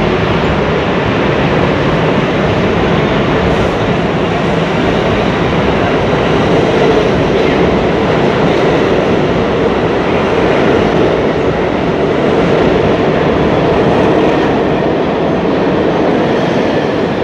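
A train running on rails: a steady, loud rumble and rush of wheels on track.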